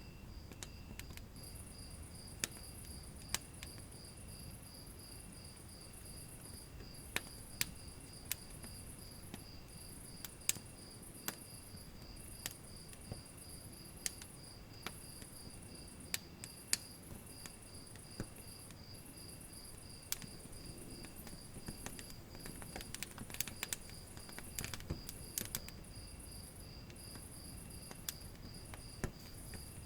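Insects chirping in a steady pulsing train, with a higher buzz that starts and stops every few seconds, over the irregular crackle and sharp pops of a burning wood fire.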